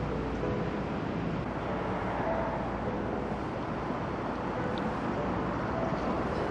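Steady rush of road traffic noise with wind on the microphone, unbroken throughout.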